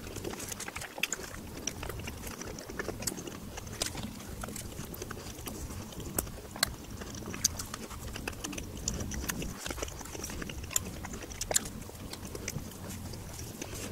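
Close-up chewing of a soft hamburger bun and patty, with irregular wet mouth clicks and smacks, a few of them louder.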